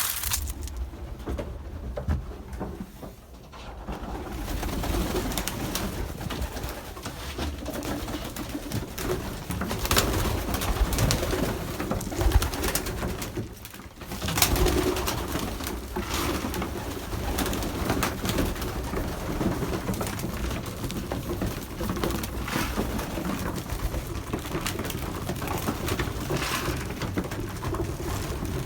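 Racing pigeons cooing inside a small loft, with a few short knocks.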